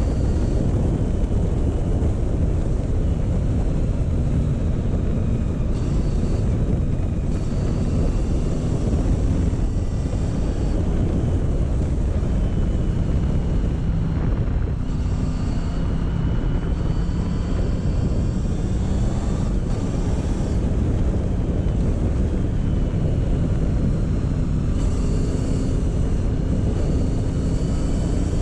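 Motorcycle engine running at a slow cruising pace, its pitch rising and falling gently with the throttle, under a steady low rumble of wind on the microphone.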